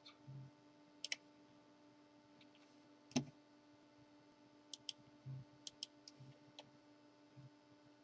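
Faint clicks, several in quick pairs, with one slightly louder knock about three seconds in, over a low steady hum.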